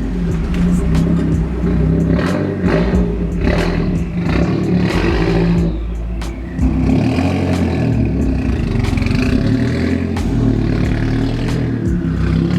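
Straight-piped exhaust of a Mazdaspeed 6's turbocharged 2.3-litre four-cylinder, loud as the car is driven, the engine note stepping up and down with throttle and a brief drop about six seconds in before it picks up again.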